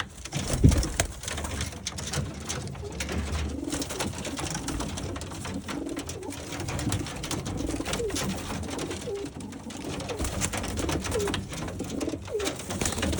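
Several racing pigeons cooing over and over in a loft, with a single louder thump about half a second in.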